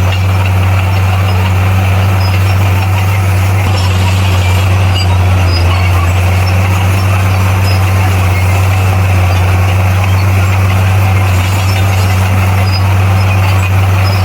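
Bulldozer's diesel engine running steadily under work, a constant low drone with no breaks or changes in pitch.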